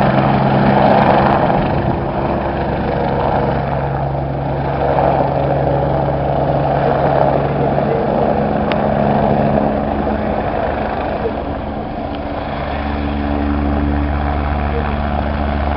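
Helicopter running steadily, a continuous engine and rotor drone with steady low tones; the low hum shifts and grows stronger about three-quarters of the way through.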